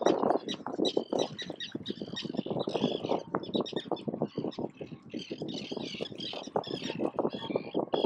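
Gulls calling in many quick, short overlapping notes, over a constant low crackling noise.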